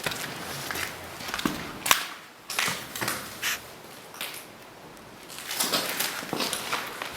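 Footsteps crunching underfoot at a walking pace, with a sharp knock about two seconds in; the steps grow quieter for a couple of seconds midway, then pick up again.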